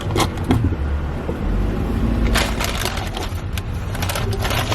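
Bursts of crinkling, crackling rustle over the low rumble of a car, about a quarter-second in, a couple of seconds in and again near the end; the rumble grows heavier after the first second or so.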